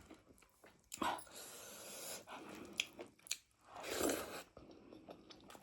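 Close-miked chewing of spicy meat with the mouth open: many short wet clicks and smacks. There are two longer hissing rushes of breath, one about a second in and a louder one near four seconds.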